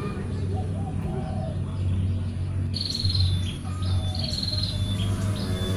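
A small bird calling repeatedly: short high chirping phrases that step down in pitch, starting about halfway through and recurring every second or so, over a steady low hum.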